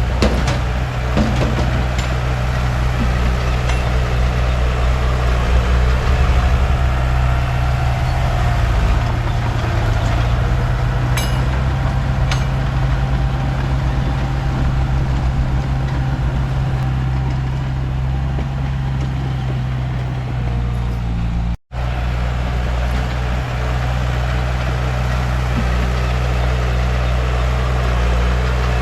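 Komatsu D31P bulldozer's diesel engine running steadily, with a few short metallic clicks. The sound drops out for an instant about three quarters of the way through.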